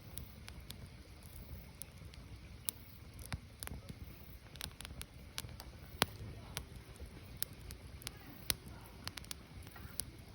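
Firewood burning: irregular sharp crackles and pops, a few of them louder, over a low steady rumble of the flames.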